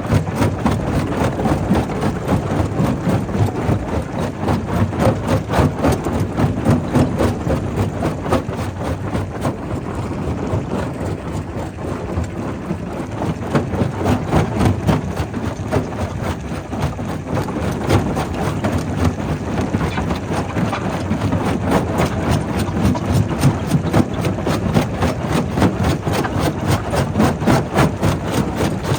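Primary rock crusher at work: a steady heavy machine drone with dense, irregular knocks and cracks of rock being broken, easing a little about a third of the way through.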